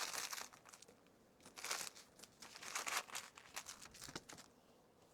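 Faint plastic packaging crinkling in several short bursts as items are handled and packed.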